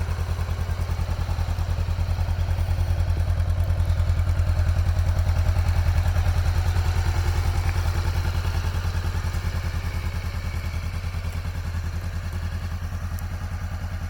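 Motorcycle engine idling with a steady, low pulsing beat that swells slightly midway and then eases off.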